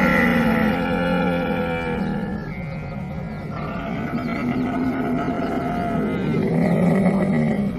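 Camel vocalizing in one long, drawn-out call of several pitches at once. It eases off a little a few seconds in, swells again, then breaks off at the end.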